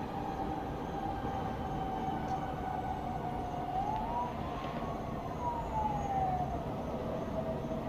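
Distant siren wailing: one long tone that holds, rises about four seconds in and slides back down, over the steady low rumble of a town at night.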